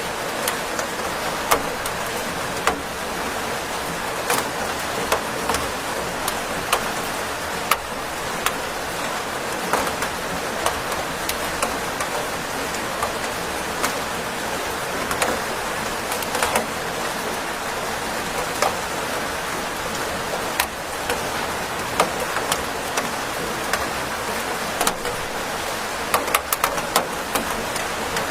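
Steady rain falling, a constant hiss with frequent sharp, irregular taps of individual drops striking a surface.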